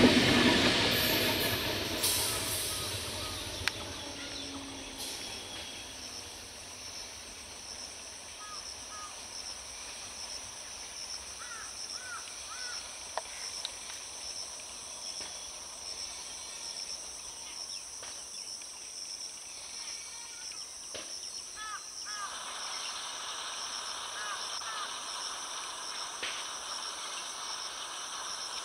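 Conventional EMU local train passing close by, its running noise fading away over the first few seconds. After that, a steady pulsing insect drone and a few short chirps fill the quiet, with a faint rise in rail noise from a little past the middle as the next EMU approaches.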